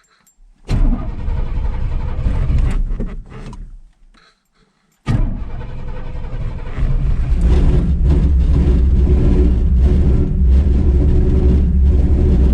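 Cold start of a 1983 Chevy C10's cammed small-block V8, carbureted with no choke. The first try fires about a second in, runs for a few seconds and dies away. About five seconds in it catches again, picks up and settles into a loud, choppy, lopey big-cam idle.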